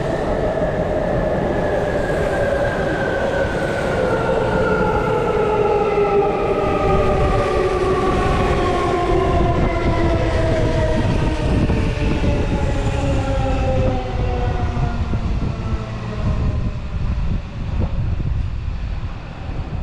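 Tokyu Toyoko Line electric train pulling into the station: its motor whine falls steadily in pitch as it brakes, over a steady rumble of wheels on track. The whine fades out about sixteen seconds in.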